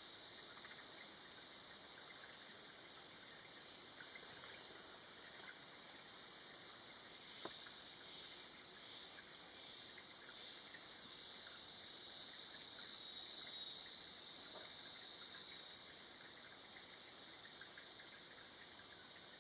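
Steady, high-pitched chorus of insects such as crickets or cicadas, swelling a little past the middle and easing slightly after it.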